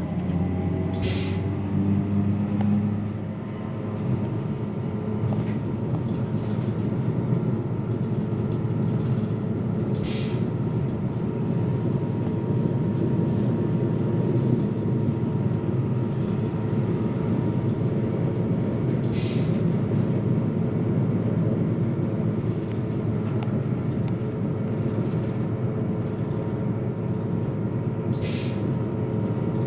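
Passenger train running, heard from inside the carriage: a steady rumble and wheel noise with a faint steady tone, and a short hiss about every nine seconds, four times.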